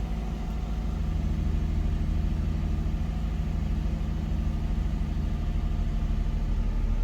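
2008 Nissan 350Z's V6 running at a steady idle through a Nismo exhaust.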